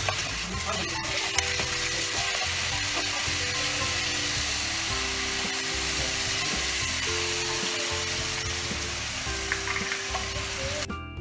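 Chicken pieces sizzling as they fry in a pan, stirred with a wooden spatula, with soft background music underneath. The sizzling cuts off near the end, leaving only the music.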